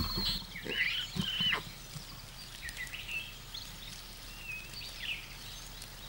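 Outdoor bush ambience: several short high chirping calls from birds, most in the first second and a half and a few fainter ones later, over a low steady background.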